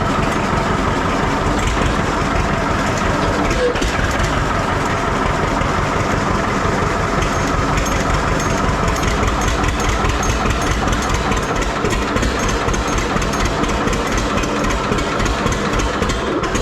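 Antique farm tractor engine running steadily at idle.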